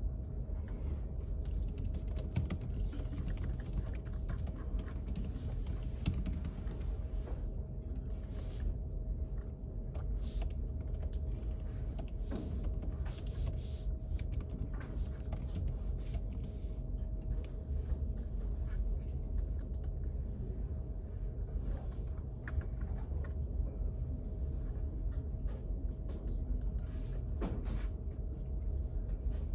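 Typing on a computer keyboard, irregular runs of key clicks, over a steady low hum with a faint steady tone.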